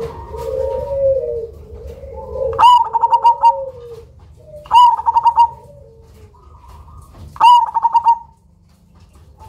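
Black 'cemani' zebra dove (perkutut) cooing in full song. It gives three loud phrases, each a sharp opening note followed by a quick run of rolling coos, with softer, lower cooing before and between them.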